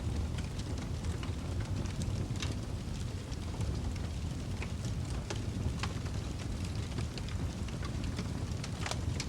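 Wood fire burning in a fireplace: a steady low rumble of flames with frequent sharp crackles and pops scattered irregularly, one louder pop near the end.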